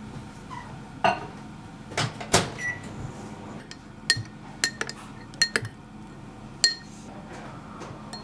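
Dishes and cutlery clinking in a kitchen: about ten sharp clinks, several ringing briefly like china or glass struck by metal, over a steady low hum.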